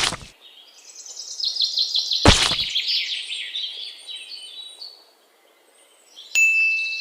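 Birds chirping and twittering in many short overlapping calls, with two sharp hits, one at the start and one about two seconds in. The chirping fades to near silence about five seconds in and starts again near the end.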